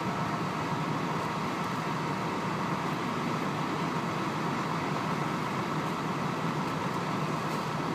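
Steady engine noise of idling trucks, unchanging throughout, with a faint high steady whine running through it.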